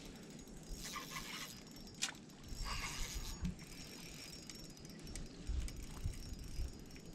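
Fishing reel being wound in, its gears whirring and clicking during a lure retrieve, with a few sharp clicks and knocks.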